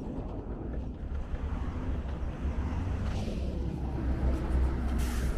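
Road traffic: vehicles running past with a steady low rumble, with brief louder swishes about three and five seconds in.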